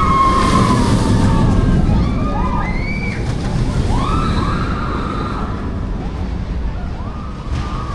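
Riders on the Voltron Nevera roller coaster screaming in several rising-and-falling yells over a steady rumble of wind and the running train.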